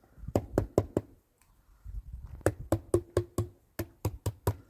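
Paint being mixed in a container: a run of sharp, irregular knocks and clicks, a few a second, with a short gap about a second in.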